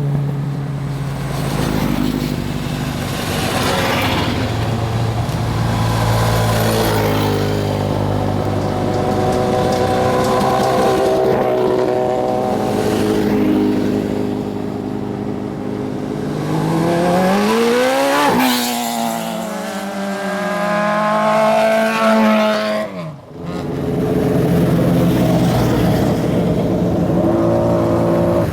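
Competition cars' engines running hard on a slalom course, their revs climbing and dropping through gear changes and braking. Two-thirds of the way through the pitch sweeps sharply up and back down, and the sound breaks off briefly about five seconds before the end.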